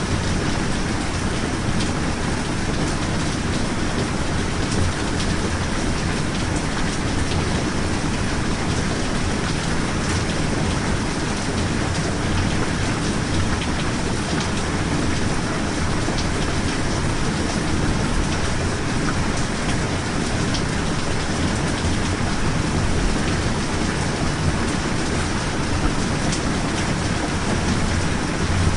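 Steady rain falling, with scattered drop ticks over an even hiss and a low rumble underneath.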